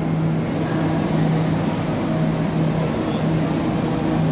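Train noise: a steady rumble with a constant low hum, and a hiss that grows brighter about half a second in.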